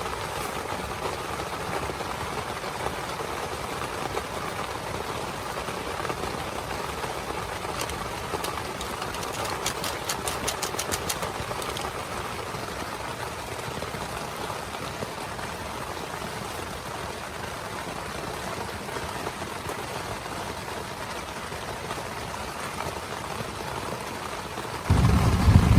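Heavy rain pattering steadily on a tent, with a brief run of rapid clicks about ten seconds in. A sudden loud low rumble comes in near the end.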